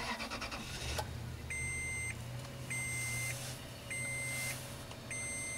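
A 2005 Toyota Tundra's engine cranks briefly in deep cold, catches, and runs at a low, uneven idle as it struggles, with the truck's door-open warning chime beeping in steady half-second tones about once every 1.2 seconds.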